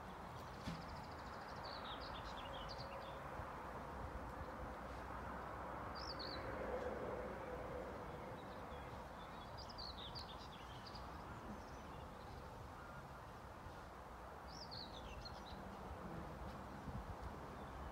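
Songbirds singing in short, chirpy phrases about four times, over a faint, steady background noise.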